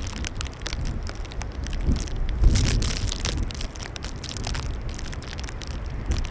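Strong gusty wind buffeting the microphone: a low rumble with irregular crackling and a brief louder gust about two and a half seconds in.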